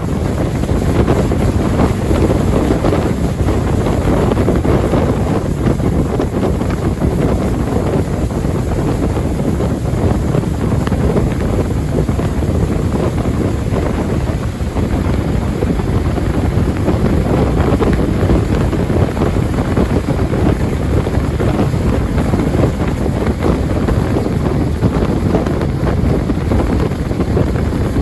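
A jet boat under way, with heavy wind buffeting the microphone: a loud, steady rush of noise with no letup.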